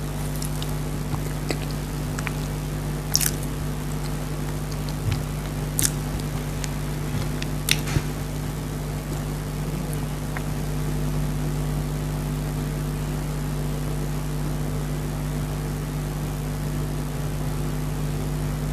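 Mouth sounds of eating chocolate dry fruit cake: a few short, wet smacks and squishes in the first half, over a steady low electrical hum that runs throughout.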